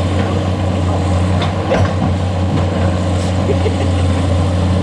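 Heavy diesel engine running steadily at a constant low pitch, with a few light knocks about a third of the way in.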